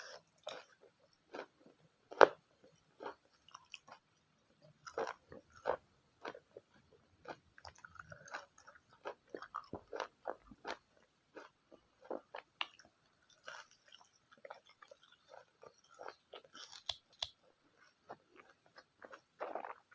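Close-miked chewing of spicy pork, egg and Maggi noodles: irregular wet mouth clicks and smacks with some crunching, with one sharp loud click about two seconds in.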